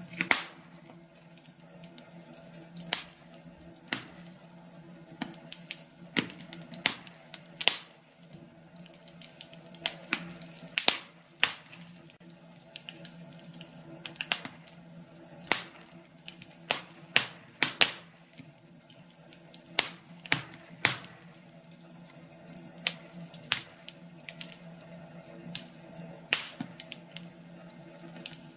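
Wood fire crackling, with irregular sharp pops and snaps over a soft steady background.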